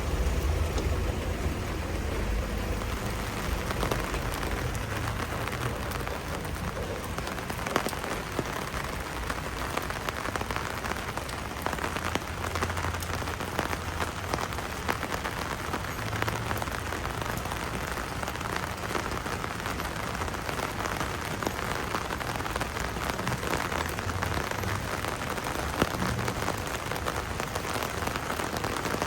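Steady rain falling, with many individual drops ticking sharply throughout. A low rumble fades out in the first second or two.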